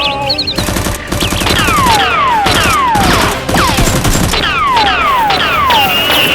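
Gunfire sound effects: rapid automatic fire with a run of falling whistles, one after another, and a steady high tone near the end.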